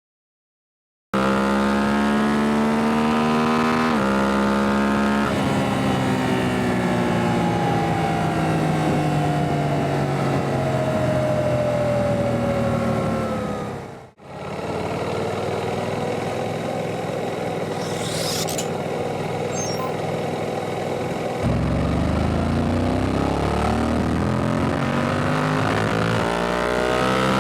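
Suzuki GSX-8S's 776 cc parallel-twin engine heard onboard. It revs up through two quick upshifts, then the revs fall slowly for several seconds. After a brief cut it runs steadily and builds revs again near the end.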